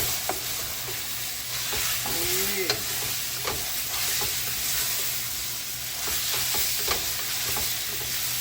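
Curry frying in hot oil in a pot: a steady sizzle, with a spoon stirring and clicking against the pot a few times.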